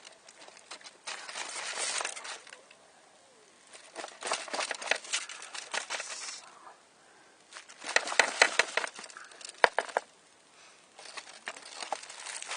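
Bursts of crinkling and rustling, in four spells with short crackly clicks, as material at the cooking pit is handled.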